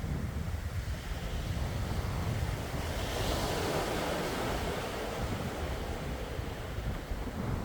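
Calm sea waves washing onto the shore, one wave swelling to a louder hiss around the middle, over a steady low rumble of wind on the microphone.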